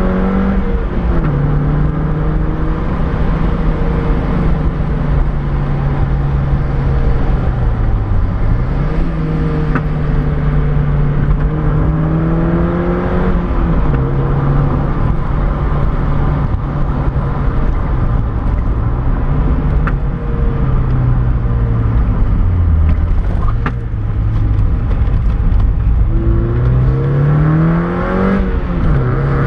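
Mazda MX-5's four-cylinder engine running as the car drives a winding mountain road, heard from inside the cabin over steady road and wind noise. The engine note climbs and then drops sharply three times at gear changes, and twice sinks and picks up again.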